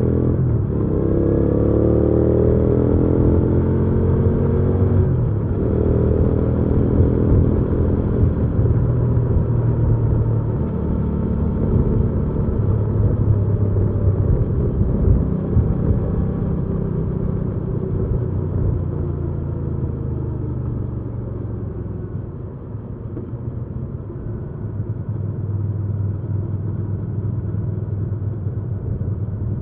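Hyosung GV300S Aquila's V-twin engine pulling a moving motorcycle, its pitch climbing under acceleration in the first few seconds, then holding a steady cruise. A little past twenty seconds it eases off and quietens briefly before picking up again.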